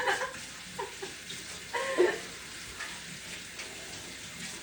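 Water running steadily from a kitchen tap into the sink, with a short vocal sound about two seconds in.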